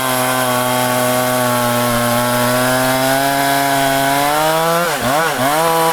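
Large Husqvarna two-stroke chainsaw running at full throttle in a cut through a big rain tree trunk, its pitch held high and steady. Near the end the engine pitch dips and recovers twice as the load on the chain changes.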